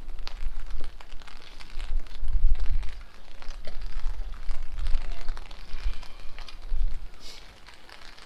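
Strong wind buffeting the microphone in uneven gusts, over steady rainfall with scattered drops clicking close by; the gusts ease near the end.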